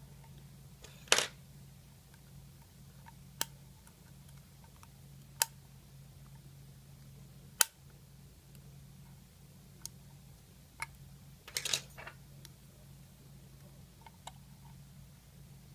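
Sharp, separate clicks and taps of small metal parts and tools being handled while an iPhone 5 is worked on, about one every second or two, with a quick flurry about two-thirds of the way through. A steady low hum runs underneath.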